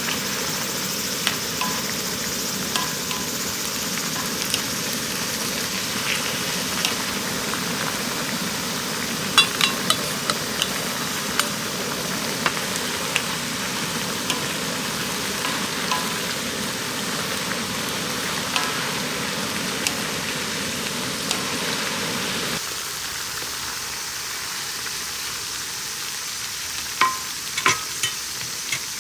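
Food sizzling in a pan, with a few light clicks scattered through. About three-quarters of the way in, the deeper part of the sound drops away abruptly.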